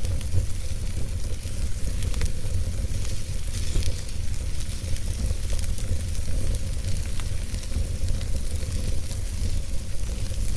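Fire burning in a fireplace: a steady low rumble of flames under a sizzling hiss, with scattered sharp crackles and pops.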